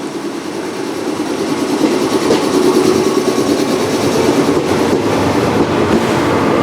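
Electric train running along the platform at a station, growing louder over the first two seconds and then holding steady, with wheel clatter over the rail joints.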